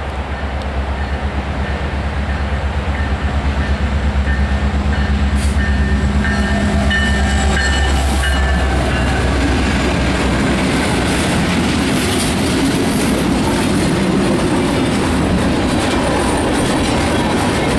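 Freight train's diesel locomotives passing close by with their engines running, followed from about halfway by the freight cars rolling past, wheels clacking over the rail joints with a steady loud rumble.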